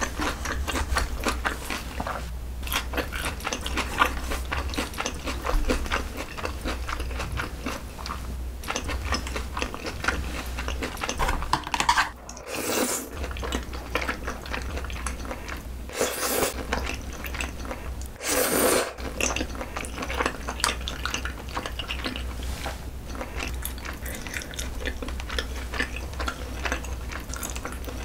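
Close-miked eating sounds: chewing and wet mouth noises from a mouthful of saucy spicy rosé noodles, with three short slurps near the middle.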